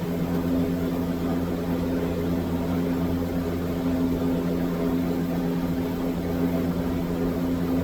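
Steady low hum of a running machine, with a few fixed low tones and no change in pitch or level.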